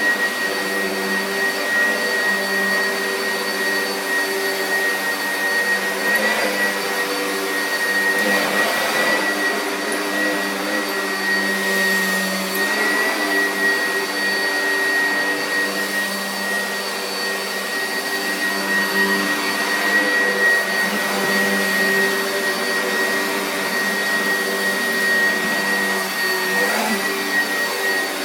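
Vacuum cleaner running steadily with a high motor whine, its pitch wavering slightly as it is pushed about a room.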